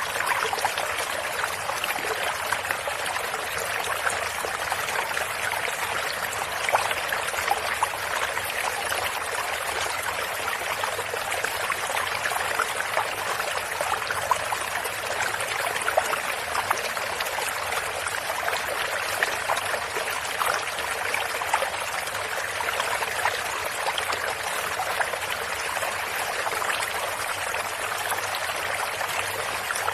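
A stream of running water flowing steadily, with small splashes and trickles scattered through an even rush.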